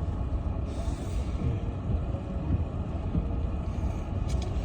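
Steady low rumble of a vehicle's engine and tyres heard from inside the cab while driving slowly on a snowy road, with a brief hiss about a second in.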